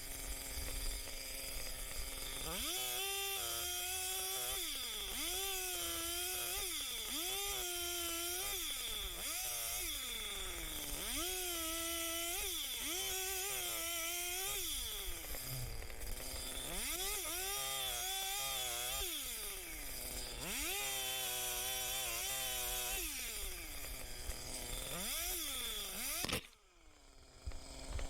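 Chainsaw revving up and down again and again, about a dozen throttle-ups of a second or two each, as it cuts through trees and brush. The sound drops away briefly near the end.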